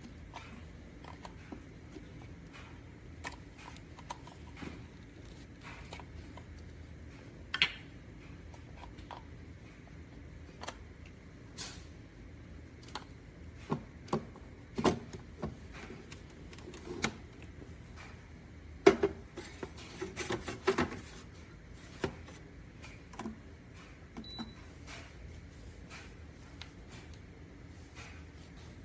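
Scattered clicks, taps and knocks of things being handled, with a busier cluster of louder knocks in the middle.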